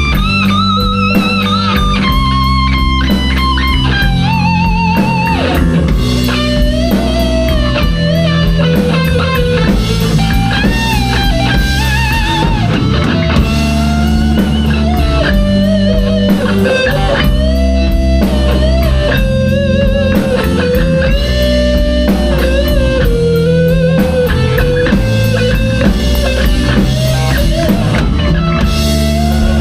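Rock band playing live: a lead electric guitar line with bent, wavering notes over bass guitar and drum kit.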